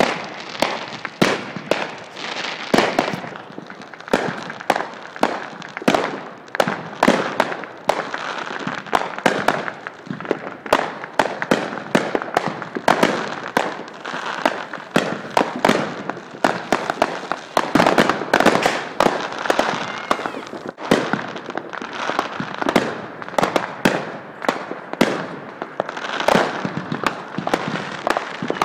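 Fireworks going off in a dense, unbroken barrage: sharp overlapping bangs, several every second, over continuous crackling from bursting shells.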